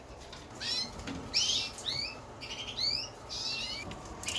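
Young Norwich canaries chirping: short rising calls, about two a second.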